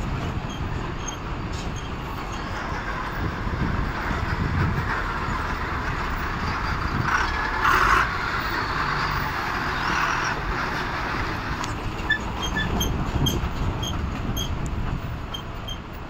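Tata truck running along a rough road, empty, with steady engine rumble and body rattle, and a brief louder screech about seven to eight seconds in.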